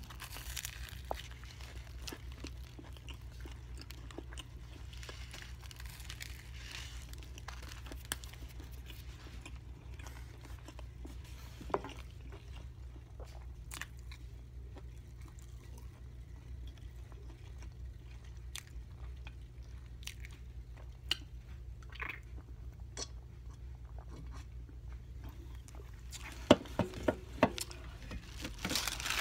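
Close-up eating sounds of a person biting into and chewing a veggie sub sandwich, with scattered small mouth clicks and a few sharper clicks near the end, over a steady low hum.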